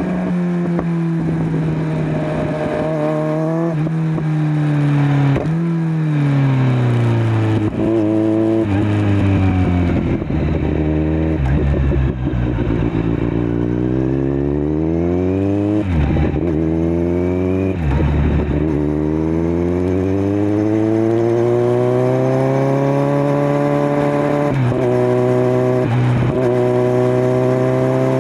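Kawasaki Z900's inline-four engine through a LeoVince LV10 slip-on exhaust under way. It revs up through several quick gear changes, slows with falling revs around the middle, then pulls up again and holds a steady speed near the end.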